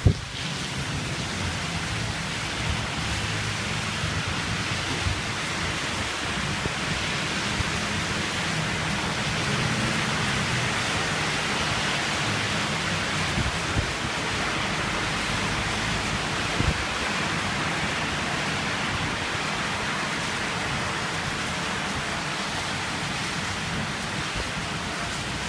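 Heavy typhoon rain pouring steadily in a dense hiss, with a low rumble underneath and a few brief knocks.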